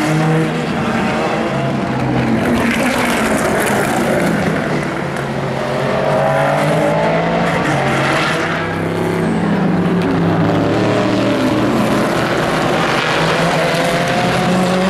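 Racing cars' engines going past on the track one after another, each engine note swelling and its pitch gliding up and down as it passes.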